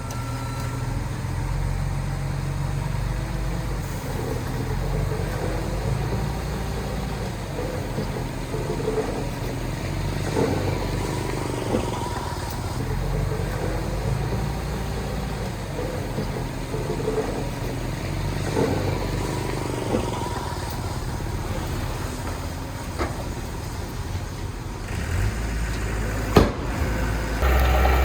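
Heavy diesel engine of earthmoving equipment running under varying load, its pitch rising and falling, with a few sharp metallic knocks.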